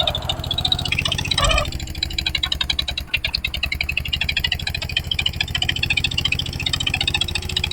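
Eicher 241 tractor's single-cylinder diesel engine running steadily with an even, rapid beat and a metallic rattle, with a brief louder surge about a second and a half in.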